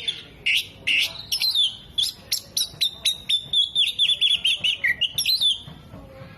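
Oriental magpie-robin singing a fast run of sharp, high chirps and short trills, several notes a second, breaking off about five and a half seconds in.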